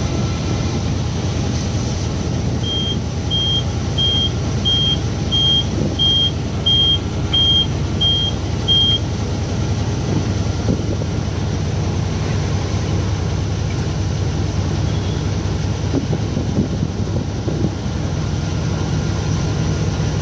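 Truck engine and road noise heard from inside the cab on the move, a steady low rumble. Early on, a run of ten short high-pitched electronic beeps sounds about two-thirds of a second apart, then stops.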